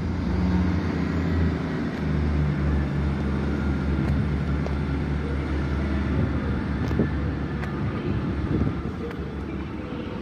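Class 158 Express Sprinter diesel multiple unit's underfloor diesel engines running with a steady low drone, the unit about to depart.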